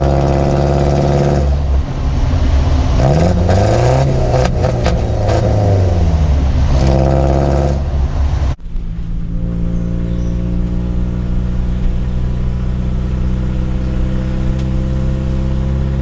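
Toyota HiLux 3.0L four-cylinder diesel running through a homemade exhaust, its pitch rising and falling as it is revved. About eight and a half seconds in the sound changes abruptly to a steady, lower engine note.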